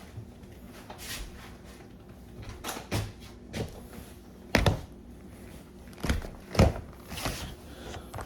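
Scattered knocks and clicks from handling the desktop PC case and plugging in its power cable, with two louder thumps, one about halfway through and one later on.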